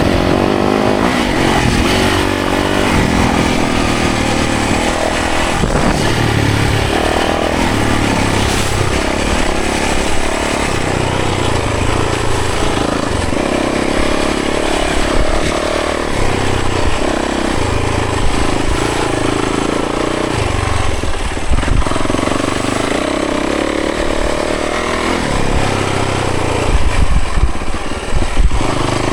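Yamaha 450 four-stroke single-cylinder dirt bike engine under way, its pitch rising and falling as the throttle is opened and closed, with louder revs near the end.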